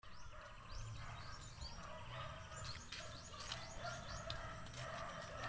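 Birds chirping, many short, quick high notes repeating over and over, with lower, longer calls underneath.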